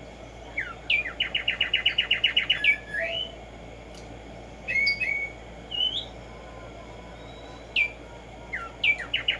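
Black-striped sparrow singing: a fast run of about ten clear, even whistled notes at roughly seven a second, with single slurred whistles between songs and a new run starting near the end.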